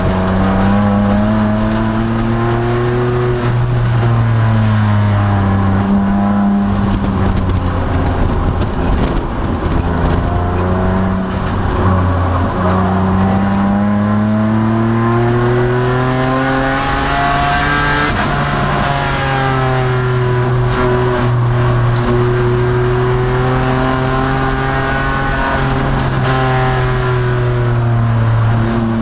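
2002 Nissan Maxima's V6 engine under race load, its pitch repeatedly climbing under acceleration and falling away as the driver lifts or shifts for corners. The revs peak about two-thirds of the way through.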